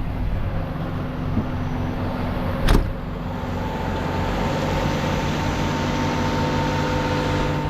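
Tow truck engine idling steadily, with one loud thump about three seconds in.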